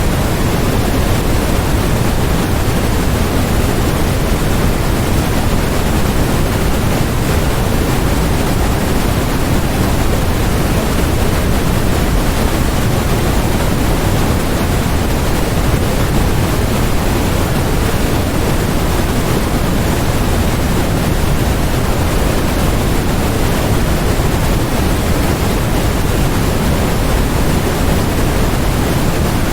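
Steady, unchanging synthetic noise of the white-noise kind: a constant hiss with no events in it, heavier in the low end than in the high.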